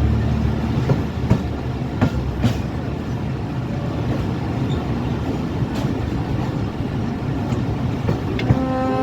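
Train running along the track, a steady rumble with scattered clicks of the wheels over rail joints. A steady pitched tone comes in near the end.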